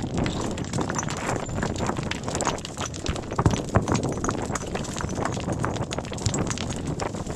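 Dense, irregular clattering: many short knocks and crunches, like hard objects or steps on stony ground.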